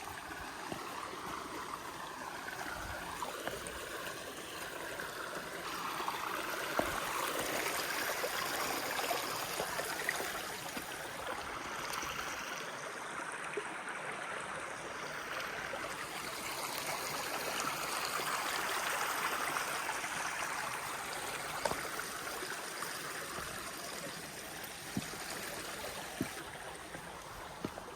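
A stream of running water, a steady rushing and gurgling that grows louder and fades again twice, with a few faint ticks.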